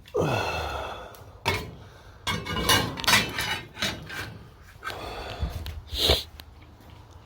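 Metal parts clanking and rattling as they are picked up and handled, with a series of knocks and clunks and a sharp ringing clank about six seconds in.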